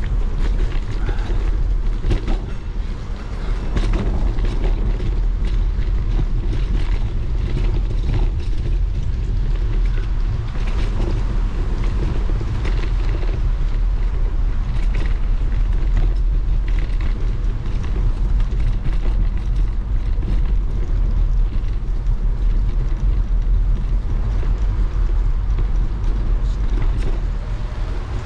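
Bicycle riding on a wet road: a steady deep rumble of wind on the microphone over the hiss of the tyres, with small rattles and clicks from the bike.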